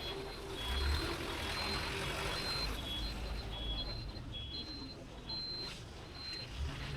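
City street traffic noise with an electronic beeper sounding short high beeps about two or three times a second, alternating between two pitches, with low engine rumbles rising and falling.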